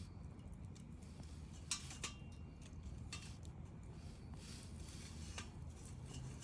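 Wood bonfire crackling faintly over a low steady rumble of the flames, with a few sharp pops, the loudest a little under two seconds in.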